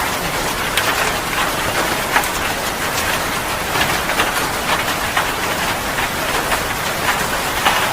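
Heavy rain falling steadily, with many separate drops splattering sharply at irregular moments.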